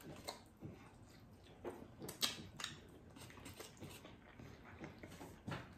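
Faint chewing and mouth sounds of people eating chicken wings: a few scattered wet smacks and clicks, the clearest about two seconds in and near the end.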